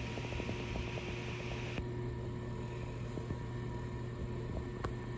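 Fireplace-style electric fan heater running with a steady hum. A hissing layer cuts off abruptly about two seconds in, and a single click sounds near the end.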